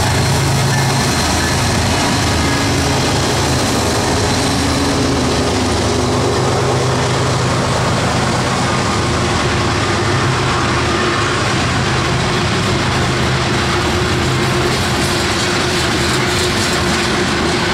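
A freight train passing close by: the second BNSF diesel locomotive's engine hums as it goes past near the start, then a long string of open-top hopper cars rolls by with a steady rumble and clatter of wheels on rail.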